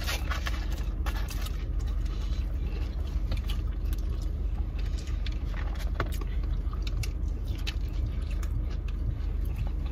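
Steady low rumble of a car idling, heard inside the cabin, with scattered small clicks and rustles as food is handled and eaten.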